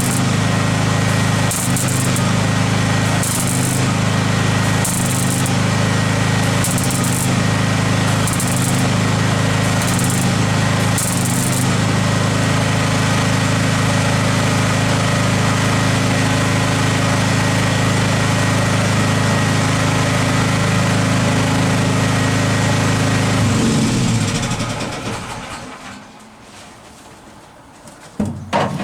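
A power tool's motor running steadily, with short hissing bursts roughly every second and a half early on. It winds down over a couple of seconds near the end, then there is a brief clatter.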